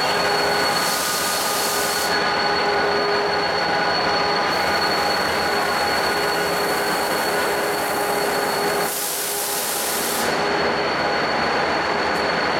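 A stationary passenger train at a station platform running its equipment: a steady mechanical drone carrying several high, steady whining tones. Two bursts of hiss about a second long break in, one about a second in and one near the end.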